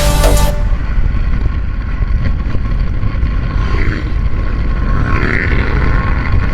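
Background music cuts off about half a second in, giving way to the steady, rumbling road noise of a Honda ADV160 scooter riding along: wind on the camera and the engine, with no clear engine note.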